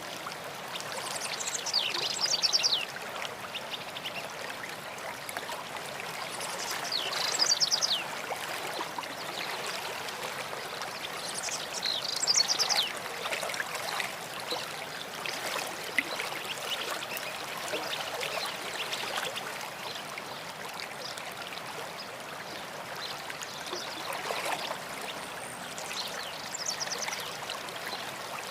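A stream running steadily. A songbird sings a short, fast phrase that falls in pitch, four times, about every five seconds at first and then after a longer gap near the end.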